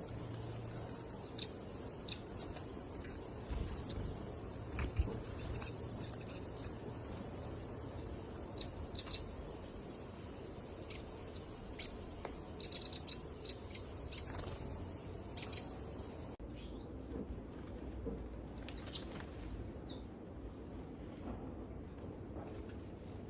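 Small birds chirping: many short, high-pitched chirps and whistled notes, one after another, with a quick run of rapid repeated notes about halfway through.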